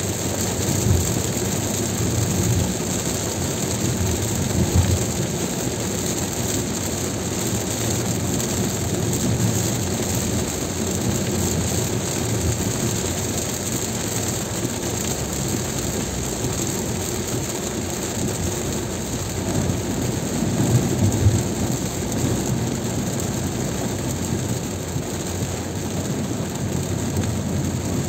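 Car driving in heavy rain: steady tyre and road noise on a wet road mixed with rain, with a few brief louder low surges.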